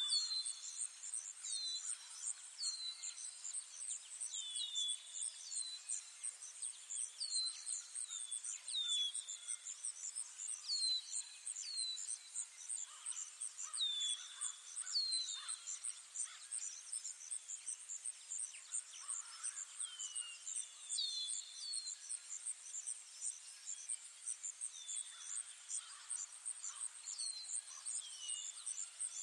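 Nature ambience of a steady, high, rapidly pulsing insect trill like a cricket's, with short falling bird chirps, often in pairs, every second or two.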